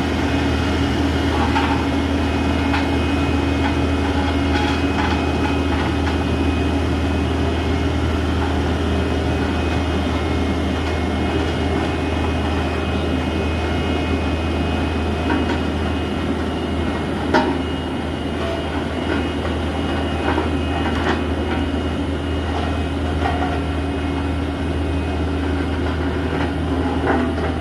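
Heavy truck's diesel engine running with a steady, deep drone, with a few scattered clicks and knocks over it.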